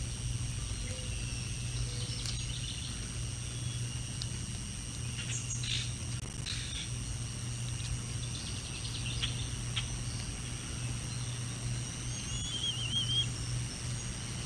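Small songbirds chirping in short scattered calls, with one warbling phrase near the end. Under them is a steady low hum from the outdoor nest camera's microphone.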